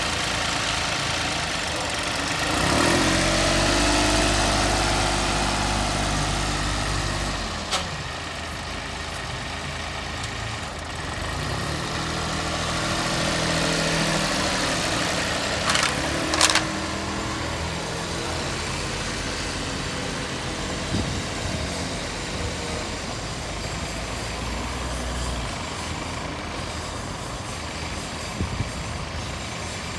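Iseki TU1400 compact tractor engine running, its note rising and getting louder twice: about three seconds in and again around twelve seconds in. A few sharp clicks or knocks come near 8 s and 16 s.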